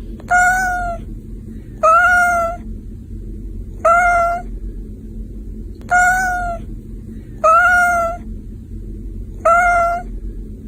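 Domestic cat meowing six times in a steady rhythm, about one meow every two seconds, each call short and level in pitch. A steady low hum runs underneath.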